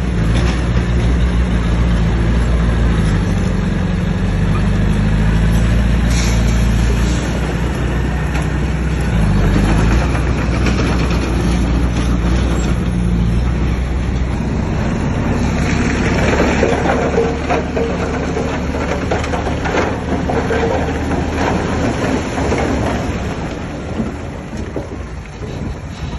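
Heavy diesel earthmoving machine working under load, its engine note steady and low through the first half. Rougher, noisier grinding takes over in the second half, and the sound fades near the end.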